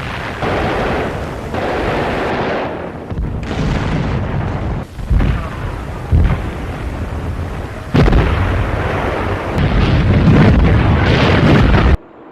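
Tiger I tank's 88 mm gun firing with explosions in an archival battle recording. There are several sudden shots, the sharpest about five, six and eight seconds in, over a continuous rumble of gunfire. The sound cuts off abruptly near the end.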